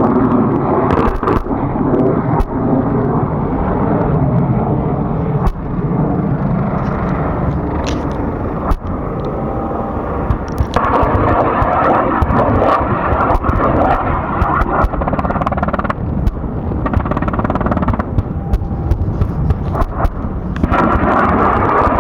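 Kiowa helicopter in flight: a loud, steady rumble of engine and rotor, dotted with frequent sharp clicks, growing brighter for a few seconds about halfway through and again near the end.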